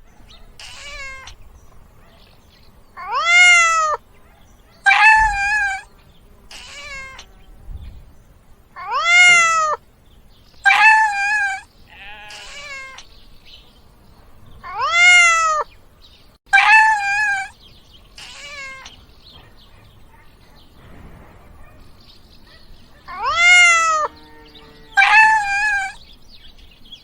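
Domestic cat meowing over and over. The loud meows come in pairs, a second and a half apart, about every six seconds, with fainter meows in between.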